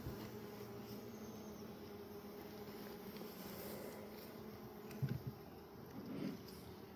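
Honeybees buzzing around an opened hive, a steady faint hum, with a few soft knocks about five and six seconds in.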